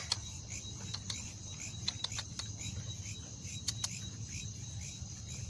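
Crickets chirping steadily, with a low hum underneath and a few sharp clicks.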